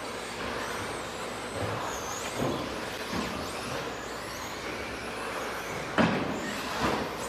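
Electric RC stadium trucks with 13.5-turn brushless motors running laps: thin high motor whines rising and falling in pitch over the noise of tyres on the track. There are a few sharp knocks from the trucks, the loudest about six seconds in.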